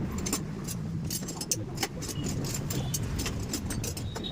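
Many light metallic clicks and clinks of tools and engine parts being handled, over a steady low rumble.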